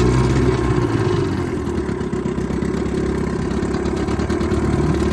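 Goodyear Sea-Bee 12 hp two-stroke outboard motor running just after starting, its revs easing down in the first second or so and then holding at a steady idle.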